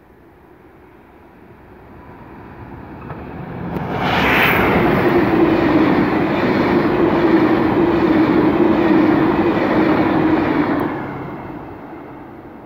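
A train approaching and passing through the station at speed. The rush of wheels on rails swells to a loud passage of about seven seconds, with a steady droning tone under it, then fades as the train moves away.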